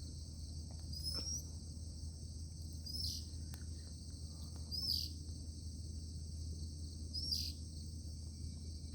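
Steady high-pitched drone of a cricket chorus, with a bird giving short rising chirps four times, about every two seconds.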